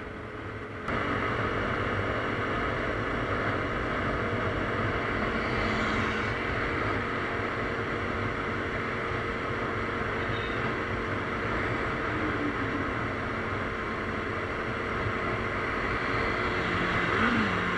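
KTM Duke 390 ridden at speed: a steady engine drone under heavy wind noise, which steps up louder about a second in. The engine pitch rises briefly near the end.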